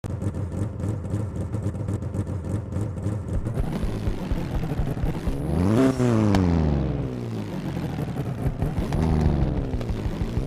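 Tofaş Doğan L's engine through a Warex aftermarket exhaust, idling with a steady pulsing burble, then revved once hard about halfway through, its pitch rising and falling back to idle, and blipped again more lightly near the end.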